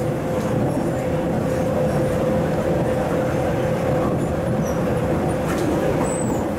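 MTR East Rail Line MLR electric multiple unit running at a steady speed: an even rumble of the running train with a steady whine.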